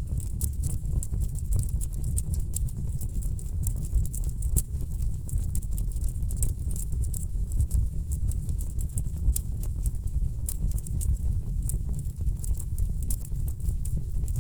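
Burning wood logs crackling in a fireplace: a dense run of quick pops and snaps over a steady low rumble of the flames.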